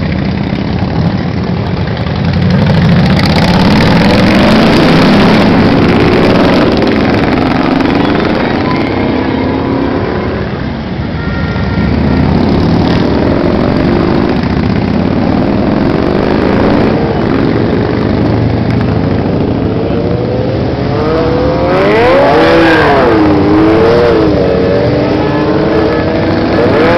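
A stream of motorcycles riding past, their engines running loudly and revving up and down. The pitch sweeps up and down most strongly about five seconds before the end.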